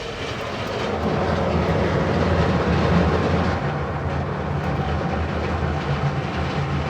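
Soft-touch automatic car wash machine scrubbing the rear of the car, heard from inside the cabin: a steady low rumble of spinning cloth brushes against the body, over a motor hum that steps up and down in pitch.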